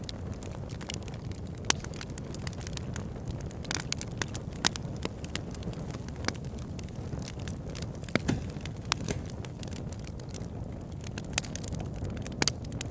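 Wood fire burning in a fireplace: a steady low rumble and hiss with frequent sharp crackles and pops of burning logs, a few standing out louder than the rest.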